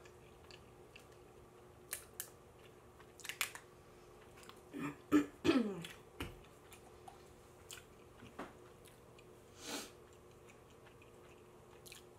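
Close-miked chewing of pizza: scattered wet mouth clicks and smacks, loudest in a cluster just past five seconds in that ends in a brief falling squeak, with a short hissing sound near ten seconds.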